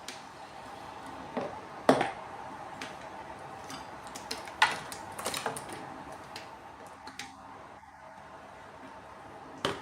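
A few light clicks and knocks of small hard objects being handled, scattered irregularly over a faint steady background hum.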